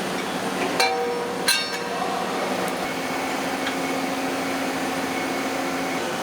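Two sharp metallic clinks of steel parts striking each other, each ringing briefly, about a second in and again half a second later, over the steady hum of factory machinery.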